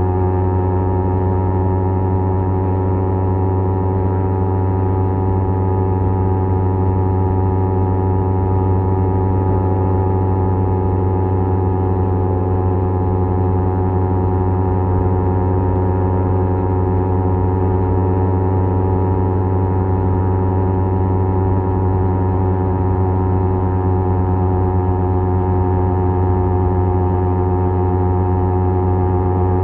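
Kawasaki Z250 parallel-twin engine through a SeaPro aftermarket muffler, running at steady revs while cruising, a constant deep exhaust drone with no change in pitch.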